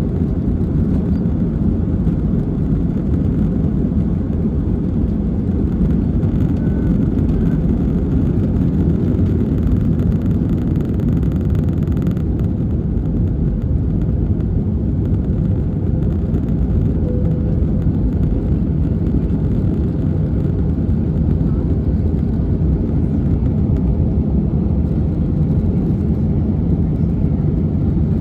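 Airliner jet engines and airflow heard from inside the passenger cabin: a steady, loud low rumble.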